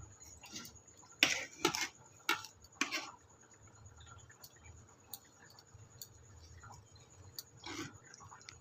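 A few sharp clicks and knocks of kitchenware, like a utensil against a dish, in the first three seconds, then only scattered faint ticks.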